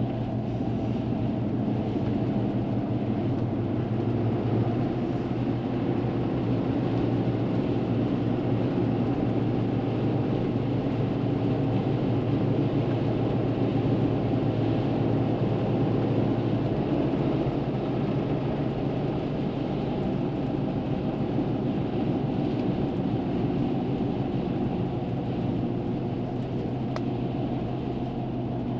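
Steady road and engine noise inside a moving truck's cabin: tyre rumble and a low engine hum at an even cruising speed.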